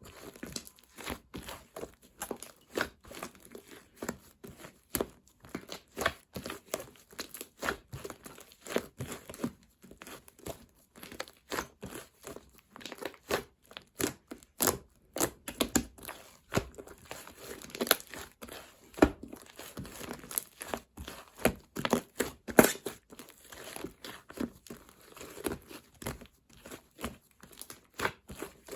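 Slime being squished, stretched and pressed by hand, giving a continuous run of sticky crackles, clicks and pops.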